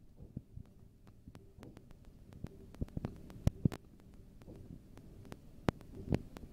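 Railway carriage running, a low rumble under many irregular clicks, knocks and rattles.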